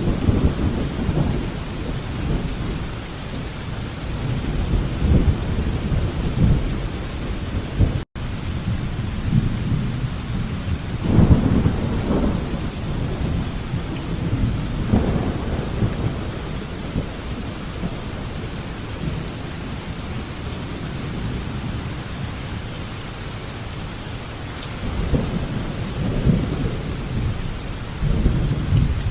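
Steady rain with rolling thunder rumbling again and again. The rumbles are loudest about twelve seconds in and come back near the end. There is a split-second dropout about eight seconds in.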